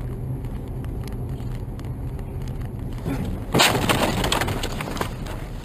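Car collision heard from inside a vehicle: steady road and engine rumble, then a sudden loud crash about three and a half seconds in, followed by a second or so of crunching and breaking glass and debris.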